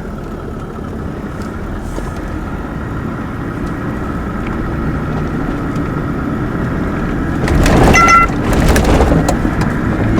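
Toyota LandCruiser 79 driving along a dirt track, its engine and tyre noise slowly growing louder. About three-quarters of the way in there is a louder rough stretch with a short high tone in it.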